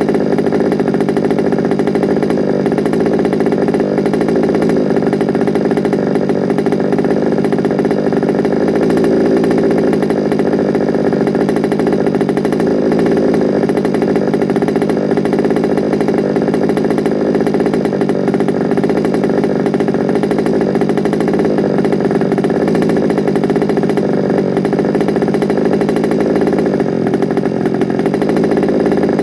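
Small two-stroke petrol engine of a large-scale FG Sportsline radio-controlled car running steadily at an even speed on its first run.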